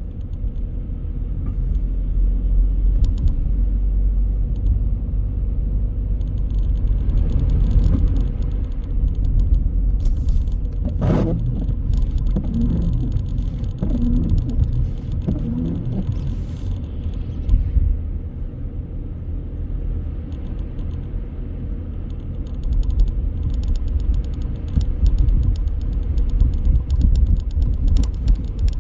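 A car driving on city streets: a steady low rumble of road and engine noise, with a brief sharper sound about eleven seconds in.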